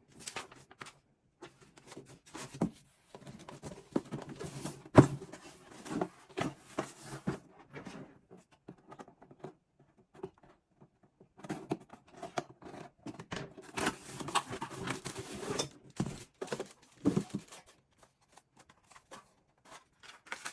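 Packaging being handled and opened: paper or plastic wrapping rustling and tearing in two longer stretches, with scattered taps and knocks. A sharp knock about five seconds in is the loudest sound.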